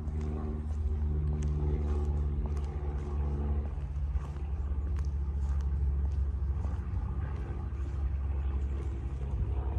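A motor vehicle's engine running with a steady low rumble and a pitched hum that fades about four seconds in, while the rumble carries on.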